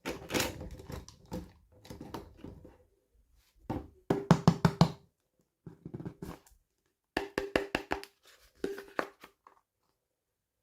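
Hands handling a small plastic toy and its packaging: bursts of quick taps and clicks with short silent gaps, densest about four seconds in and again around seven to nine seconds in.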